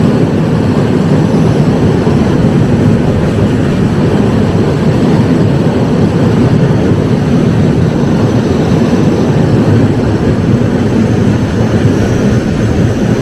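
Indian Railways express train running through a rail tunnel: a loud, steady, low rumble of wheels and carriages that fills the tunnel.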